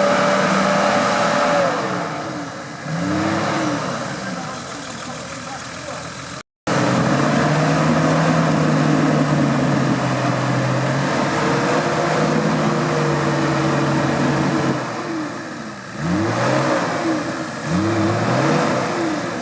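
Off-road 4x4 engine revving up and down in repeated bursts, holding steady high revs through the middle stretch. The sound drops out for a moment about six seconds in.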